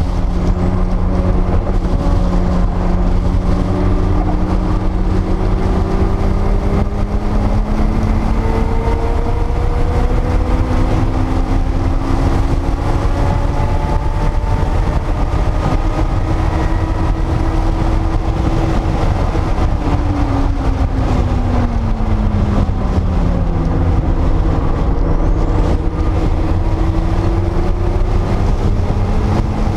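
A 1979 Porsche 930 Turbo's turbocharged 3.3-litre flat-six heard from inside the cabin at speed. Its pitch climbs slowly in a long pull, falls for about four seconds a little past the middle, then climbs again, over a heavy low rumble.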